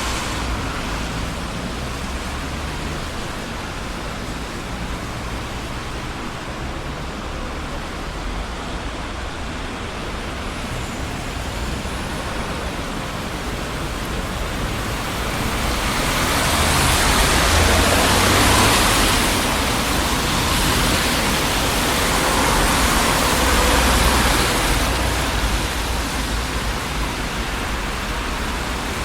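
Steady traffic noise on a busy city street: a continuous rush of tyres and engine rumble. It swells louder about halfway through as one or more vehicles pass close by, then eases back.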